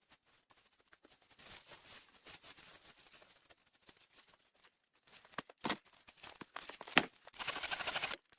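A tarp rustling and crinkling as it is handled. It is faint at first, then comes a few sharp cracks, and near the end a louder stretch of dense rustling.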